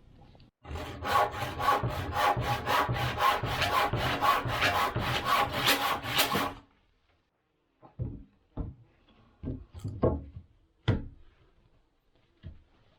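Hand saw cutting through wood in quick, even strokes, about three or four a second, for some six seconds before stopping abruptly. A few separate knocks of wood follow.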